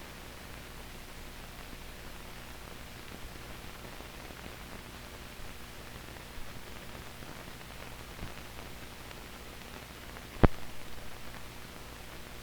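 Steady hiss and faint hum from the soundtrack of an old newsreel film, with no program sound. There are a couple of small ticks, and a single sharp pop about ten and a half seconds in.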